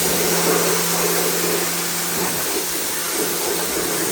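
Vacuum cleaner running steadily with an even motor hum and airflow rush, cleaning out a car.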